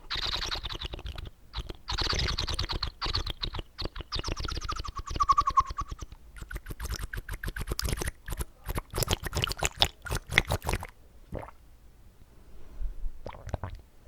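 Close-miked wet mouth sounds: dense runs of quick smacking and squelching clicks from water and saliva in the mouth, thinning to a few scattered clicks in the last few seconds.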